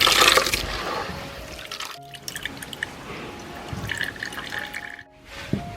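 Water splashing and pouring, loudest right at the start and tailing off within about a second, then lighter splashes and drips.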